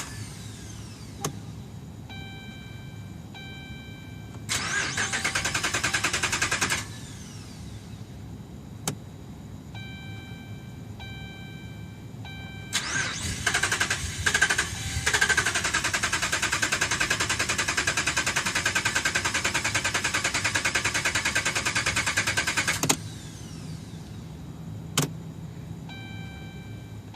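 2011 Ram 1500 cranking without starting: a short crank of about two seconds, then a long crank of about ten seconds that stops abruptly without the engine catching. Between attempts a dashboard warning chime dings and a few clicks sound. The crank-no-start was traced by the dealer to a defective TIPM (Totally Integrated Power Module).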